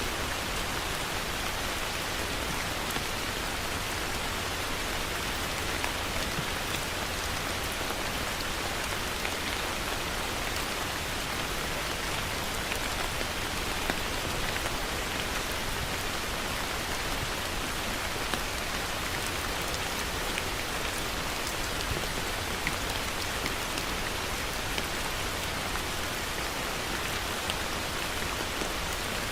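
Heavy rain falling steadily, a dense hiss of drops with many individual drop ticks on a hard surface.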